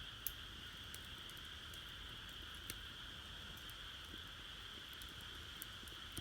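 Wood fire burning in a Solo Stove Campfire secondary-combustion fire pit, giving occasional sharp crackles, the loudest just after the start. A steady high-pitched drone runs underneath.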